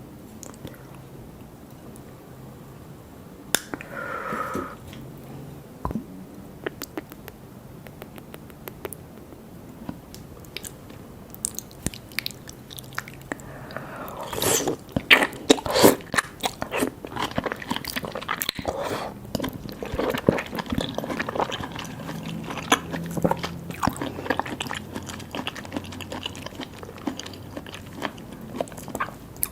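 Close-miked eating of seafood: biting and wet chewing with mouth clicks and smacks. The sounds are sparse for about the first ten seconds, then become dense and steady.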